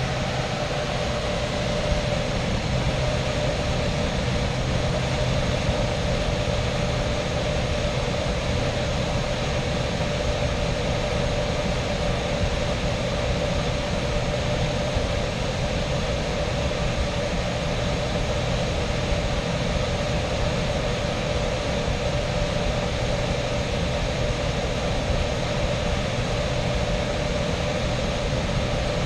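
Variable-speed air handler blower running on steadily at high speed after the electric heat strips have shut off, clearing the leftover heat out of the unit: a steady rush of air with a low hum and a higher steady tone.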